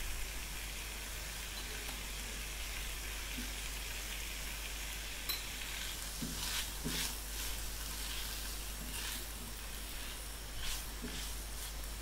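Shredded cabbage and chicken sizzling as they stir-fry in a wok, with the spatula scraping and tossing through the food several times in the second half.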